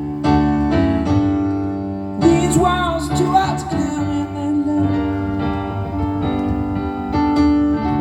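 Keyboard played in piano-like chords, each struck and held, with a new chord about every second. A short wavering vocal line sounds over it about two to three seconds in.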